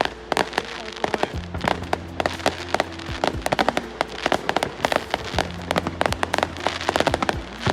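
Dense New Year's fireworks: a rapid, irregular barrage of sharp cracks and pops, some loud and some faint, with background music under it.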